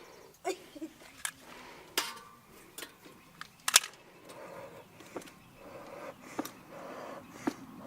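Bee smoker being packed and worked: a scatter of sharp clicks and knocks from the metal can and lid, then, in the second half, several short soft puffs of air from its bellows.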